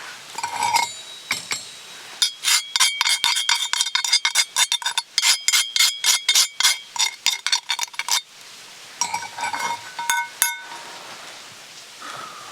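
Metal cookware clinking and rattling with bright ringing tones. There is a few-second run of many quick strikes in the middle, with a few clinks before and after it.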